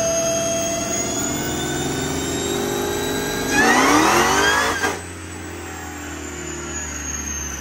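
Dodge Charger Hellcat's supercharged 6.2-litre Hemi V8 running at full throttle on a chassis dyno, with a high supercharger whine. About three and a half seconds in the engine climbs quickly in pitch to its loudest, then the throttle closes just before five seconds in and the engine drops back to a quieter run-down.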